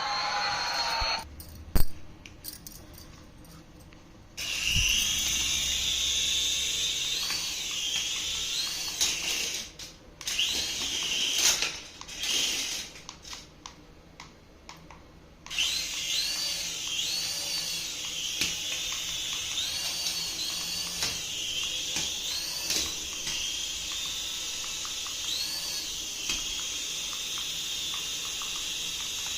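High-pitched whine of a battery-powered toy's small electric motor, stopping and starting twice, with repeating electronic chirping sound effects over it.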